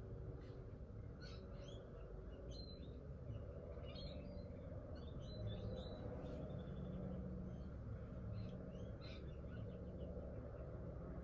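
Faint birds chirping outside: short high calls scattered throughout, some in quick little runs, over a steady low background rumble.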